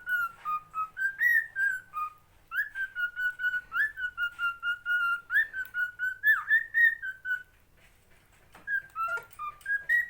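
Whistling: a run of quick, clear whistled notes moving up and down in a short tune, breaking off briefly about two seconds in and for about a second near the end before starting again.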